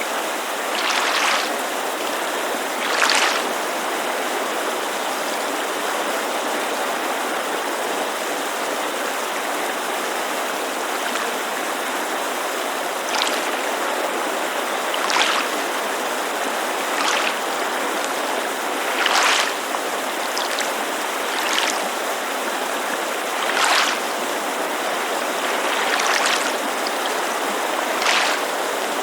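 Steady rushing of a mountain creek, with small lake waves lapping against the shore in about a dozen short splashes at uneven intervals.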